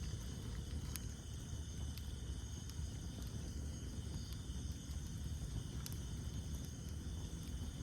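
Campfire burning: a steady low rumble of flames with a few sharp crackles and pops of burning wood, over a steady high chirring of night insects.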